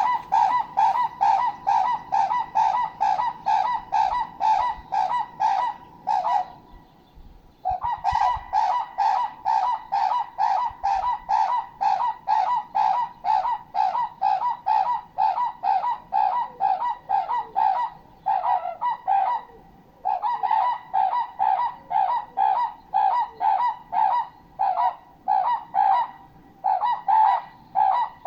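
A bird honking over and over, about three trumpet-like honks a second, in long runs with two short breaks.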